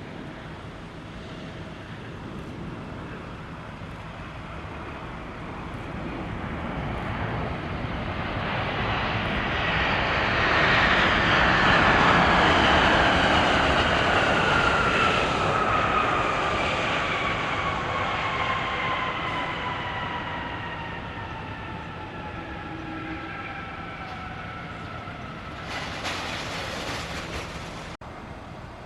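Jet airliner's engines passing by, the rumble swelling to a peak and fading, with the engine whine sliding down in pitch as it goes past. A brief hiss near the end.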